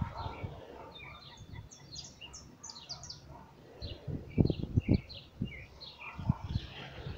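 Small birds chirping, many short high chirps repeating, busiest in the first half. A few low thumps come in about four to five seconds in.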